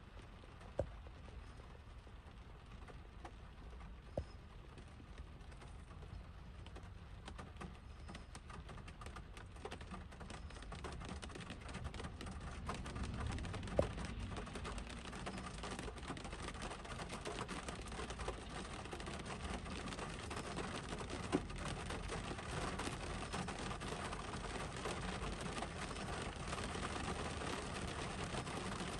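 Rain falling on the roof and windshield of a Honda CR-V, heard from inside the cabin as a dense patter of drops that gets louder after about twelve seconds. A few louder single taps stand out.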